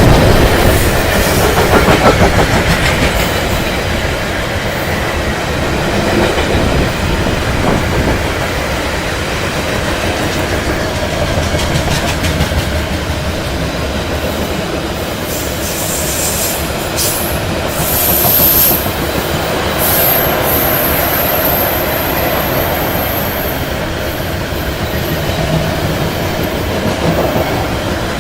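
Iron-ore freight train rolling past, its wagons clattering steadily over the rails. A thin high wheel squeal comes in for a few seconds about two-thirds of the way through.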